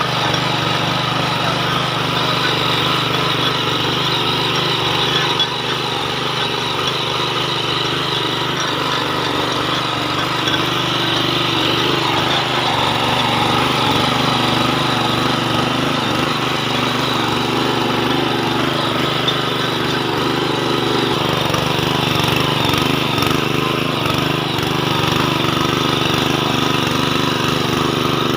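Small power tiller's engine running steadily as it tills the soil.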